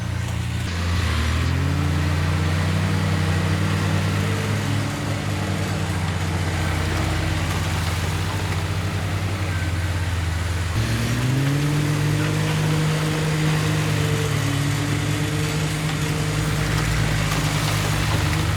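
Heavy diesel engine of earthmoving machinery running. Its pitch rises about a second in, dips and climbs again about eleven seconds in, then holds steady.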